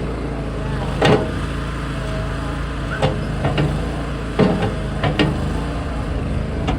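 Toro Dingo compact utility loader's engine running steadily, with about five sharp knocks and clanks spread over the few seconds as the bucket works through chunks of a cracked concrete slab.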